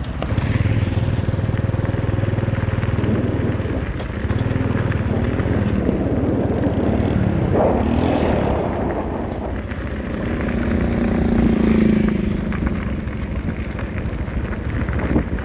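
Diesel engines of road-construction machinery running steadily, with the engine pitch rising and falling twice as a machine works under load.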